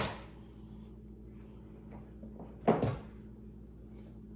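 Handling noise from objects being moved on a table: a sharp click at the start and a knock about three seconds in, over a faint steady hum.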